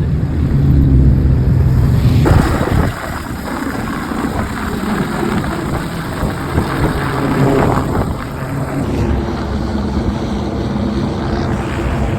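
Car engines running, loudest for the first two seconds, then a rougher mix of vehicle noise with the low engine sound coming back later.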